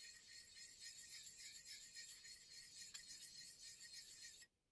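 Faint scratchy scrubbing of a Chinese cleaning stone rubbed back and forth over a wet whetstone, swelling and fading with each stroke and stopping abruptly near the end.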